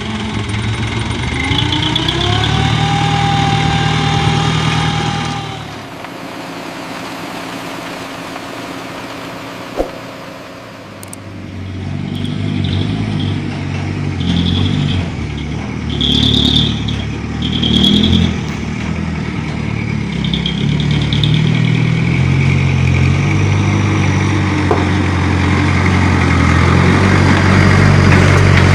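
Hino Dutro dump truck's diesel engine running and revving: it rises in pitch in the first few seconds and drops back about a fifth of the way in. It then builds again to a steady, louder run over the last third, with a string of short high squeals in between.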